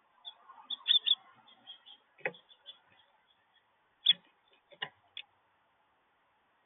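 A bird at a seed feeder pecking: a quick run of sharp high ticks, loudest about a second in, with sharper knocks about two, four and five seconds in as its beak strikes the feeder and the seeds.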